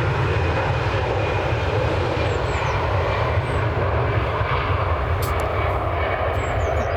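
Jet airliner engines running with a loud, steady rumble as an airliner takes off or lands.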